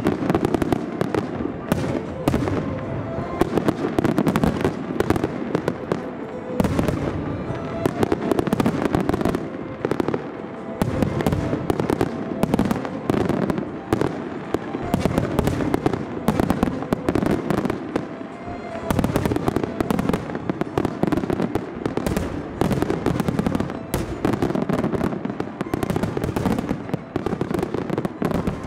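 Finale barrage of aerial firework shells: many bursts in rapid, overlapping succession with crackle, sustained without a break, over background music.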